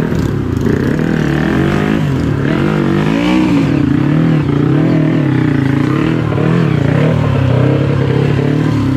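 Trail motorcycle engine running and revving, its pitch rising and falling unevenly as the throttle is worked, with a climb about three seconds in.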